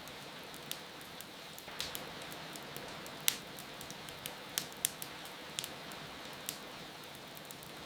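Wood fire crackling with irregular sharp pops over a steady hiss of falling rain; the loudest pop comes about three seconds in.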